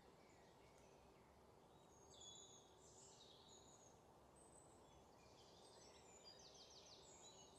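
Near silence: faint forest ambience with a few distant, high-pitched bird chirps, including a quick series of rapid notes about six seconds in.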